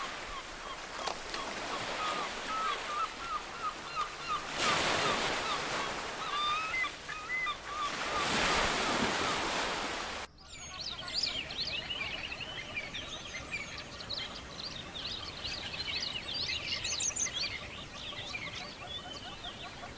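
Surf washing in and out in surges while a bird gives short, repeated calls. After a sudden cut about ten seconds in, a dense chorus of many birds calling over one another.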